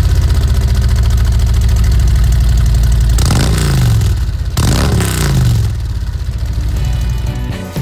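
Harley-Davidson CVO Street Glide's Milwaukee-Eight 114 V-twin idling through a Rinehart slimline dual exhaust, revved twice, about three and about four and a half seconds in, each time rising and falling back to idle.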